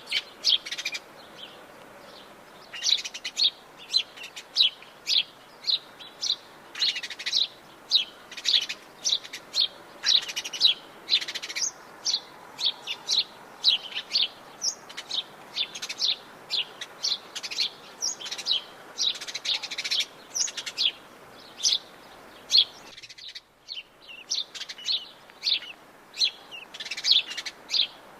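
Wild songbirds chirping: a dense run of short, high chirps, several a second, over a faint steady hiss. The chirps and hiss briefly drop out about four-fifths of the way through.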